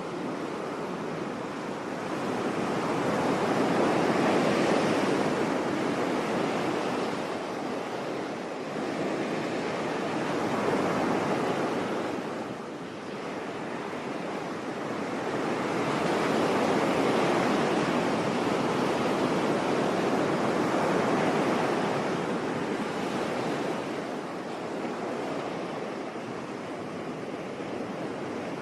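Sea waves surging onto a beach, the rush of surf swelling and fading every several seconds, with a brief lull about twelve seconds in.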